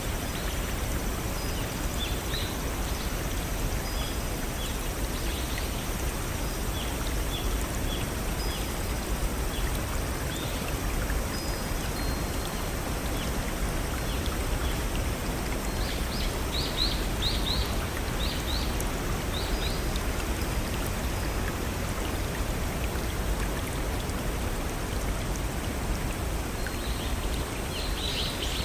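Steady rushing of a small stream or waterfall, with short bird chirps scattered over it and a quick run of chirps about halfway through and again near the end.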